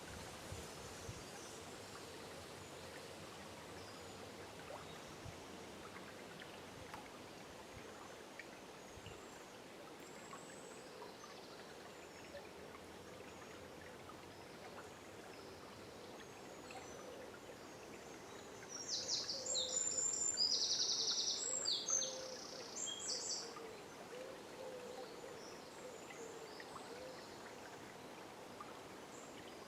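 River water flowing steadily in a forest at dawn, with faint scattered bird calls; about two-thirds of the way through a nearby songbird sings a loud burst of rapid high notes for a few seconds.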